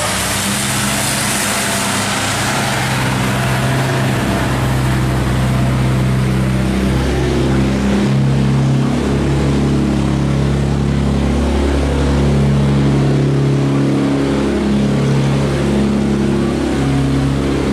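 Boat engines running steadily, a low, continuous hum whose pitch shifts slightly now and then.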